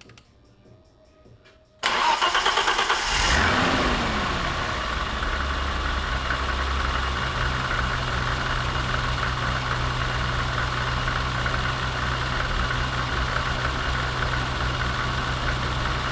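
BMW E30's M20 straight-six cranked on the starter about two seconds in, catching after about a second, flaring up and back down, then settling into a steady idle. It sounds pretty good, its intake vacuum leaks now clamped.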